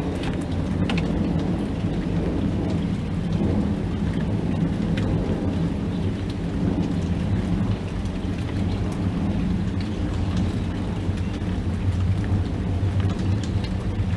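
Steady rain during a thunderstorm, with scattered faint drop ticks over a continuous low rumble.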